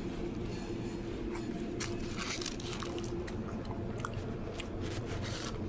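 A person biting into and chewing a cheeseburger sub, with short crunchy bites and chewing noises scattered through, over a steady low background hum.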